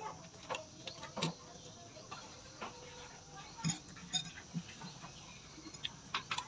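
Eating sounds: chewing and mouth smacks with small clicks and clinks of food and dishes, coming irregularly a few times a second.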